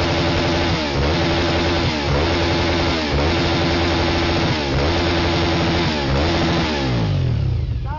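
Motorcycle engine held at high revs for a loudness measurement, the revs dipping briefly about once a second, then falling back toward idle near the end.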